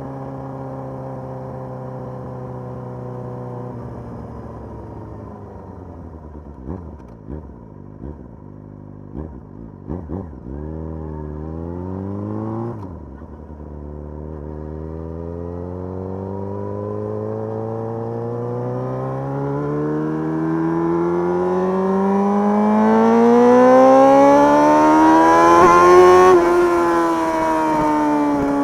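Motorcycle engine running under way, steady at first, then several short rev rises and falls before a long, steady climb in revs that grows louder. Near the end the revs drop sharply.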